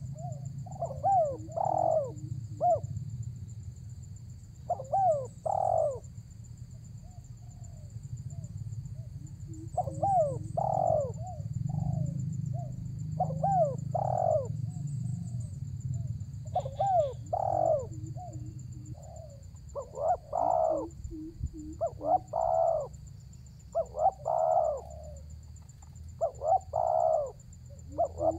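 Spotted dove (tekukur) cooing in repeated phrases: each phrase is a few gliding coos followed by short lower notes. The phrases come every few seconds at first and follow one another more closely in the second half.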